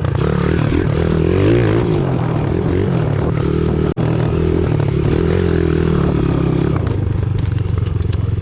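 Pit bike's single-cylinder engine running under the rider, revs rising and falling as it is ridden through mud, with scraping and clatter from the bike. The sound cuts out for an instant about four seconds in.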